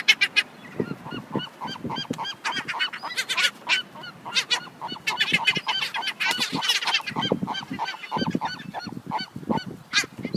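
A flock of gulls calling over one another: many short squawking calls in quick succession, several birds at once.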